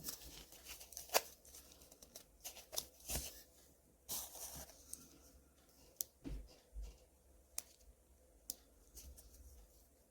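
Irregular clicks, taps and short rustles of small objects being handled close to the microphone.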